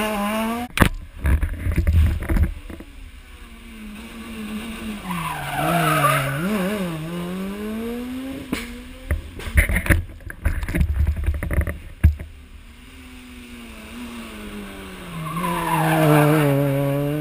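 Rally car engine revving hard through hairpin bends, its pitch rising and falling with throttle and gear changes, broken by clusters of sharp bangs and cracks about a second in and again past the middle.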